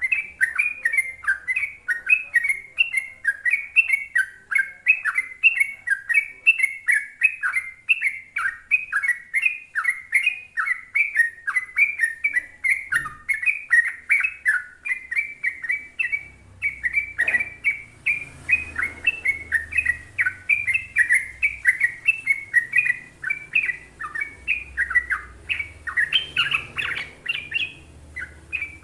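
Sooty-headed bulbul singing a long, unbroken run of quick chattering notes, about four to five a second. A single knock comes about two-thirds of the way through.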